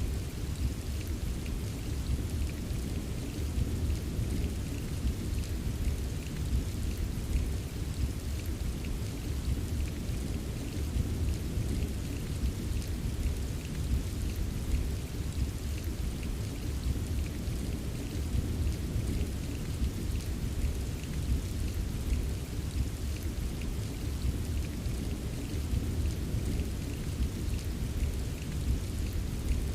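Steady rain pattering in fine, dense drops over a continuous low rumble of distant thunder, with no sharp thunderclap.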